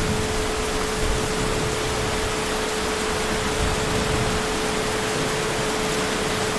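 Heavy rain falling steadily, an even, unbroken hiss with no thunder, with a steady hum at one pitch underneath.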